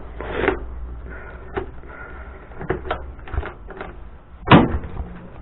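Motorcycle seat being handled and fitted back on: a string of clicks and knocks, with one loud thump about four and a half seconds in.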